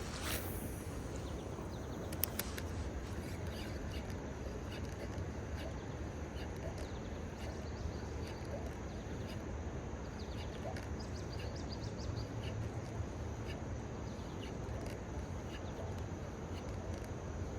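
Steady outdoor background noise with scattered faint, short bird chirps throughout, and a brief whoosh and a couple of light clicks near the start.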